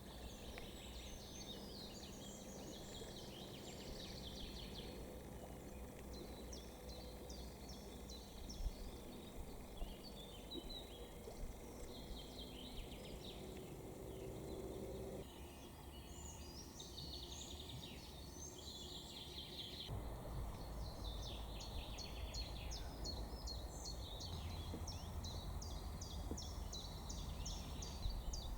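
Birdsong: several small birds singing quick chirps and rapid trills over a faint, steady low background rumble.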